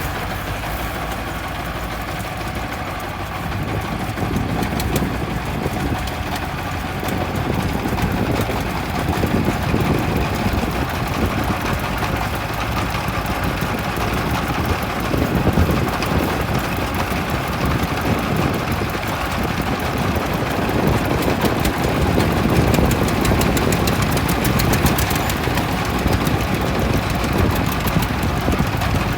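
Kubota M5018 tractor's diesel engine running steadily while pulling a plow, getting louder a few seconds in.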